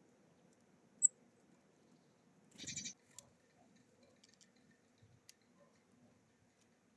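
Small songbirds calling: a single short, high-pitched call about a second in, then a brief harsh call a little under three seconds in, with a few faint clicks after.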